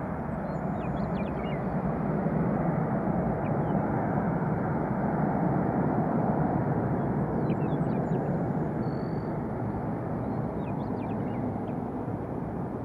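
Jet airliner engine noise: a steady rumble that swells a couple of seconds in, holds for several seconds, then eases off.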